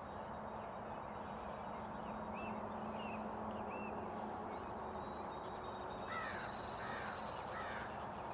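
A crow cawing three times near the end, over steady outdoor background noise with faint small-bird chirps earlier on.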